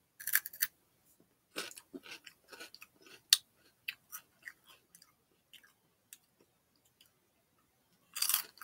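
A person biting into a Flamin' Hot Cheeto and chewing it close to the microphone: a few sharp crunches at the bite, then a run of irregular crunching chews that thin out after about five seconds. A louder burst of noise comes near the end.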